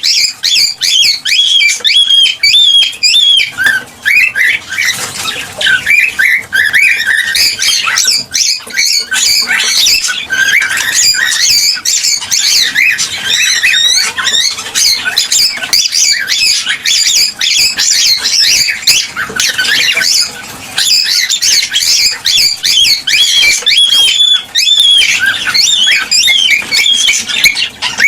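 Cockatiels chirping and whistling without a break: many quick, overlapping calls that glide up and down in pitch.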